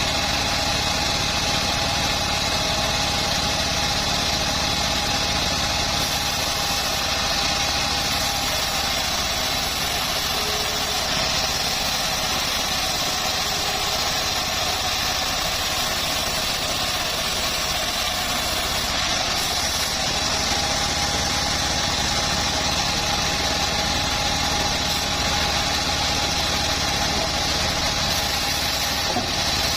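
Homemade sawmill bandsaw running steadily, a constant engine-like drone with a steady high whine over it.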